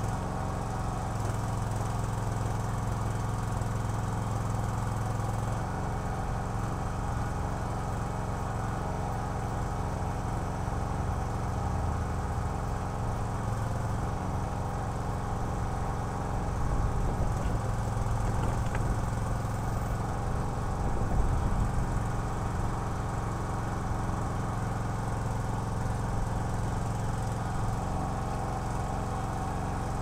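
Small gas engine of a towable backhoe running steadily while the hydraulic arm digs and swings. The engine note wavers and grows louder for a few seconds a little past the middle, while the arm is working.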